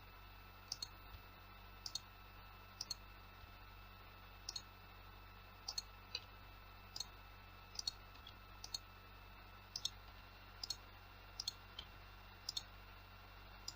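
Computer mouse clicks, about one every second, many as quick press-and-release pairs, over a faint steady electrical hum: points being placed for cuts with Blender's knife tool.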